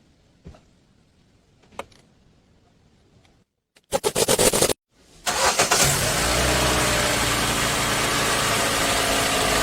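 Car engine cranked by the starter for about a second, then catching after a brief pause and settling into a steady idle. A few faint clicks come before the cranking.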